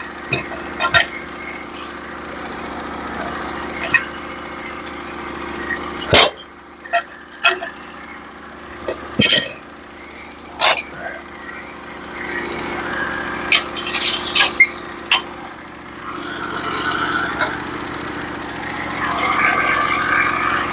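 Portable bandsaw sawmill's engine running steadily at idle, with a string of sharp knocks and clatters over it.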